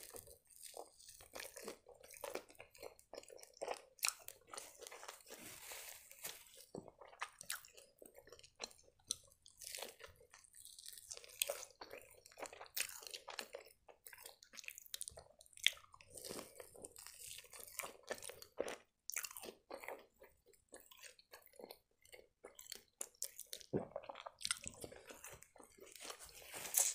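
Chewing and biting pan-fried chicken-filled crepes with a toasted crust: an irregular run of small crunches and mouth clicks.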